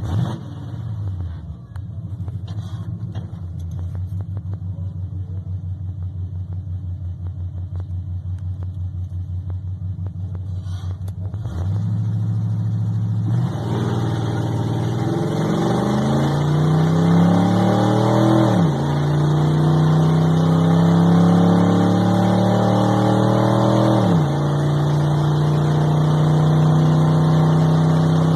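Squarebody Chevy drag truck's engine idling with a choppy, pulsing lope, then revving at about eleven seconds and accelerating hard. Its pitch climbs and drops back at two gearchanges before holding at a steady cruise.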